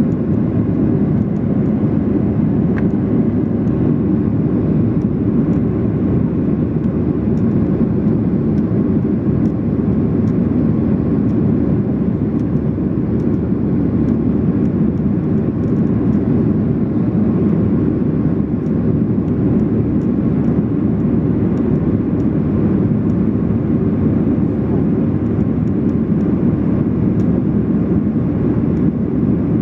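Steady cabin noise inside a Boeing 737-800 under power: a constant low rumble of its CFM56 jet engines and the airflow.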